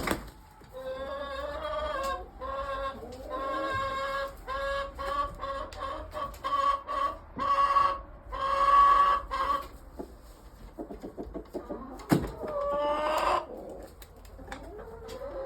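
Backyard chickens vocalizing: one bird gives a long run of short, repeated clucking calls that ends in a longer drawn-out note, followed by softer rapid clucks, a sharp click and one more rising call near the end.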